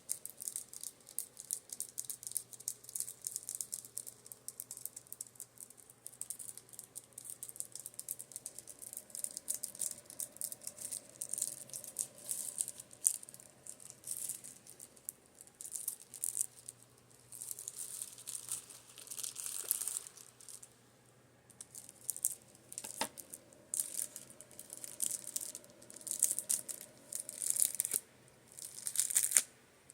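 Makeup brushes being tapped and scratched: quick, irregular crisp taps and bristly scratches, with a short pause about two-thirds through. A fan hums steadily underneath.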